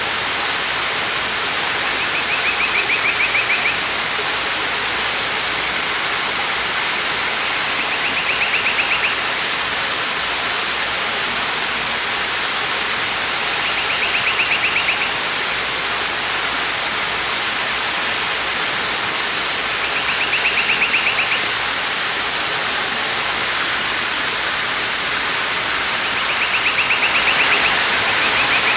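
Waterfall's steady rush of falling water. About every six seconds, five times, a short rapid trill sounds above it, a bird calling.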